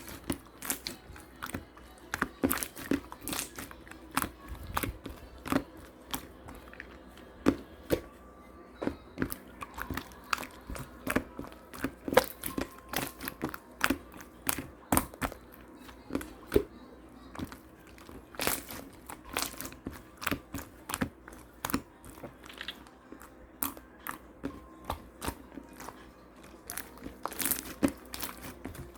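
Clear slime being squeezed and pressed by hand, giving an irregular run of sharp wet clicks and pops, several a second.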